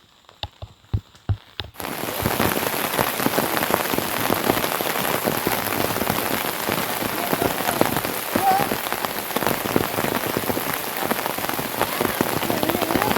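Heavy rain falling on a surface, a dense steady pattering that starts suddenly about two seconds in, after a few separate drips or knocks in near quiet.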